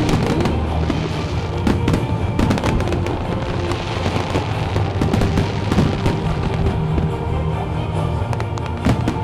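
Fireworks bursting and crackling in rapid, overlapping bangs, over music playing.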